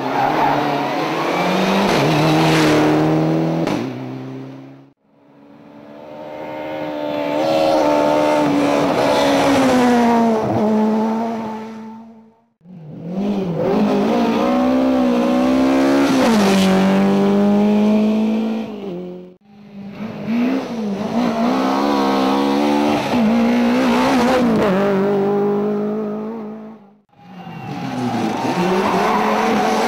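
Rally car engines revving hard, pitch climbing and dropping through gear changes as the cars drive past. This comes in about five separate shots, each cut off abruptly.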